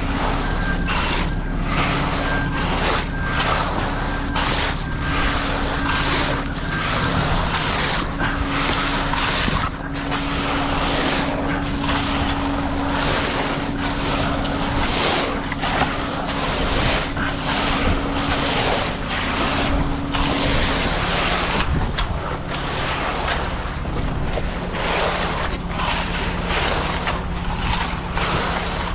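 Wind buffeting the microphone in gusts over an engine running steadily.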